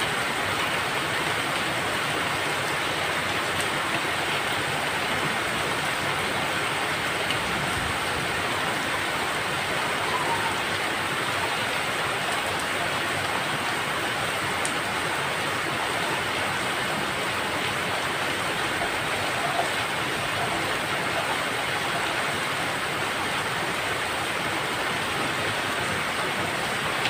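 Steady rain falling, an even, unbroken patter without pauses.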